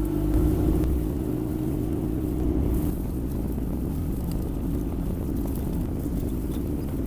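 Yanmar diesel engine of a Kymron XH20D mini excavator running as the machine travels. Right at the start its steady hum gives way to a rougher, uneven low rumble, which continues.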